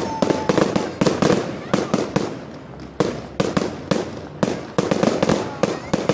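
Fireworks finale: a rapid barrage of bangs and cracks, several a second, with a short whistle dying away just after the start.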